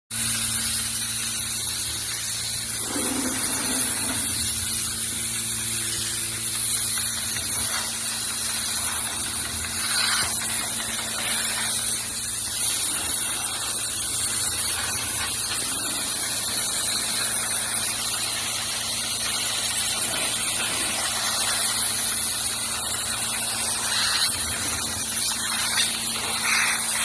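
Pressure washer spraying water onto an engine to clean it: a steady, loud hiss with a steady low hum underneath.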